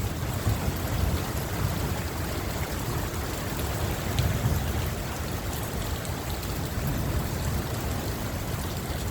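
Heavy monsoon rain falling steadily, an even rushing hiss of rain and running water.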